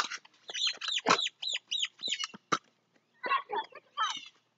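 Birds calling: a quick run of short chirps that slide down in pitch, then a rougher chattering call about three seconds in. A single sharp click sounds about two and a half seconds in.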